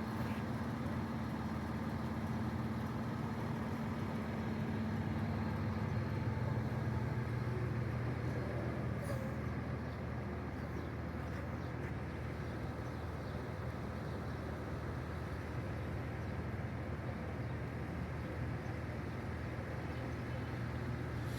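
A bus's diesel engine running steadily: a low, even drone that swells slightly partway through.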